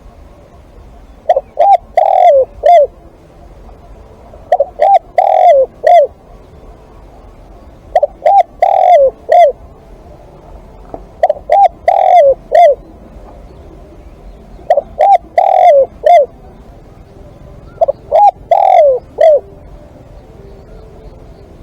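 Spotted dove cooing: a phrase of four or five coos with a longer, falling coo in the middle, repeated six times at about three-second intervals.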